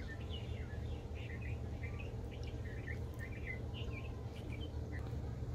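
Small birds chirping in many short, repeated notes over a steady low rumble.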